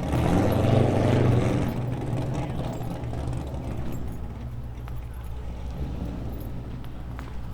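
Car engine running steadily at low revs. It is louder for the first second or so, then eases down to a lower steady drone.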